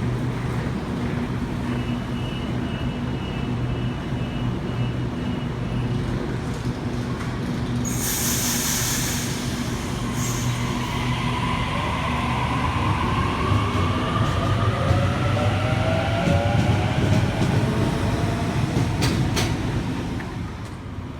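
Sydney Trains Waratah electric train pulling away from the platform. Over a steady low hum there is a high tone for a few seconds, then a loud hiss of air about eight seconds in. After that the traction motors whine in several rising tones as the train accelerates away, fading near the end.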